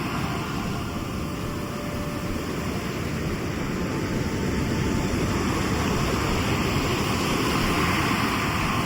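Sea surf washing onto the shore: a continuous rush of waves that eases off slightly about a second in and builds again toward the end.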